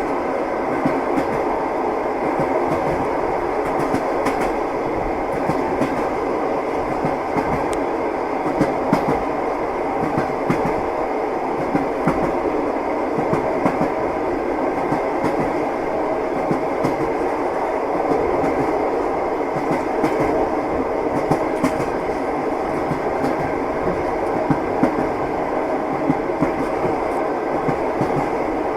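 Passenger train car's wheels running over rail joints at speed, heard from inside the car: a steady rumble with a scattering of sharp clacks throughout.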